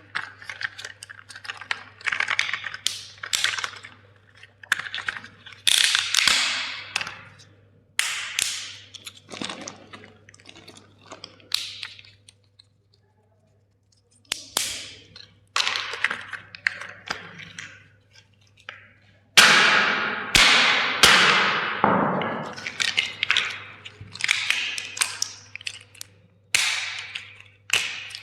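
Toy plastic cracking and snapping, in a long irregular series of sharp cracks and taps. There is a short pause about halfway through, and the loudest run of cracks comes about two-thirds of the way in.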